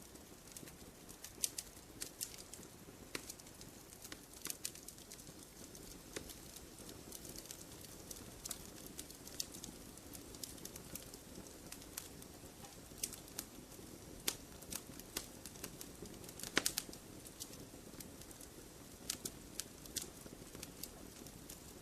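Wood fire crackling in a fireplace: irregular sharp pops and snaps over a faint low hiss, with a louder cluster of pops about three-quarters of the way through.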